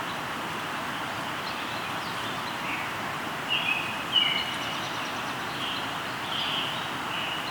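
Steady rush of a flowing river, with a run of short bird calls beginning about three and a half seconds in, the loudest just after four seconds.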